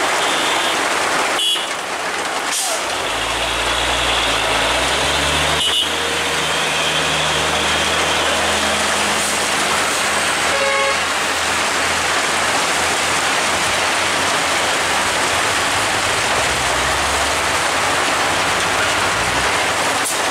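Steady rain hiss with a heavy truck's diesel engine running low and steady from about three seconds in, and a few brief horn toots.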